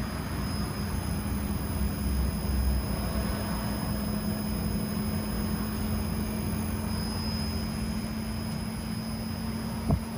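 LG Multi V mini outdoor air-conditioning unit running steadily: a constant compressor hum under fan noise, with a low rumble in the first few seconds and a sharp click near the end.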